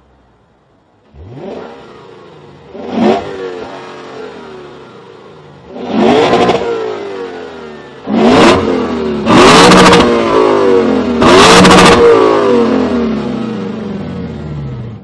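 Lexus RC F's 5.0-litre V8 through a Guerrilla aftermarket exhaust, revved in a series of throttle blips, each rising sharply and then falling back. The revs grow harder, with the three loudest coming about eight to twelve seconds in, before it settles back down.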